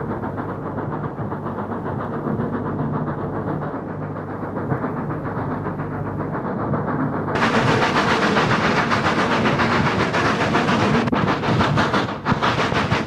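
Steam-hauled train running, with a steady rumble and a rapid, regular clatter of wheels on the rails. About seven seconds in the sound turns suddenly louder and brighter, with more hiss.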